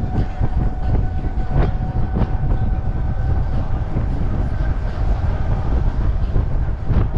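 Motorcycle riding noise: heavy wind and road rumble on the microphone, with a steady whine held throughout and a few sharp clicks.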